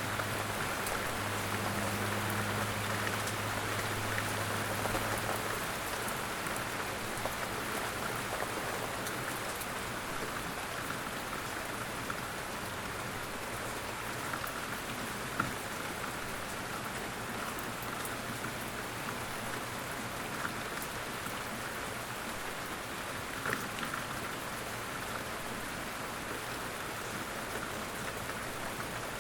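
Steady light rain falling, with scattered individual drops landing close by. A faint low hum is heard in the first several seconds, then fades out.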